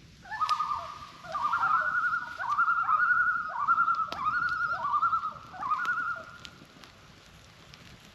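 Common loons giving their loud tremolo call, a wavering, laughing series repeated about half a dozen times over some six seconds before it dies away.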